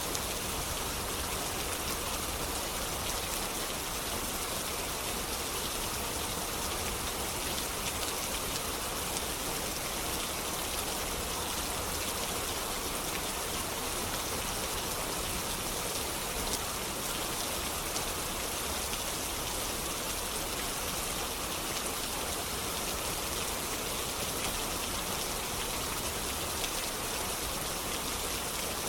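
Steady rain falling, an even hiss with occasional faint clicks of drops.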